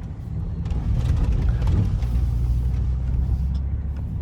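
Work truck driving on a snowy road, heard from inside the cab: a steady low rumble of engine and tyres, with a run of crackling clicks in the first couple of seconds.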